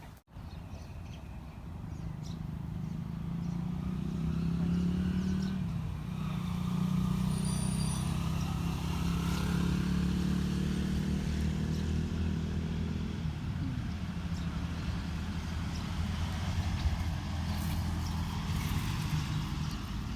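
A motor engine running steadily. It builds over the first few seconds, holds strongest for several seconds, then eases off after about thirteen seconds.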